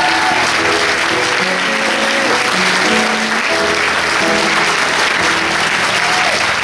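Audience applauding steadily over instrumental music playing a melody.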